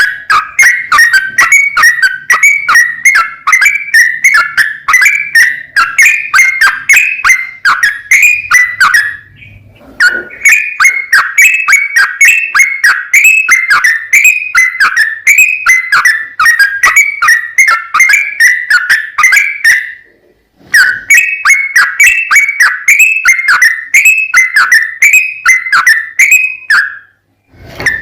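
Yellow-vented bulbul (trucuk) singing a long, fast run of loud whistled notes, about four or five a second. The song breaks into three long runs with two brief pauses.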